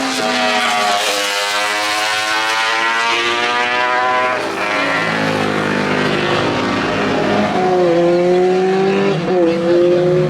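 Racing motorcycle engines at speed on the track. The first passes with its pitch falling away; the second accelerates with its pitch climbing and two short dips as it changes up a gear.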